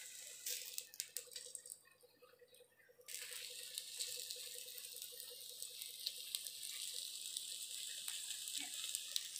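Parotta frying in oil on a flat iron tawa: a quiet, steady sizzle with scattered small crackles. It fades out about two seconds in and comes back a second later.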